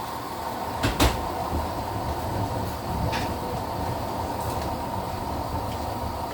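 Midea HealthGuard Smart 13kg washing machine running with a steady low rumble and a faint steady whine, with a couple of sharp clicks about a second in and another near three seconds.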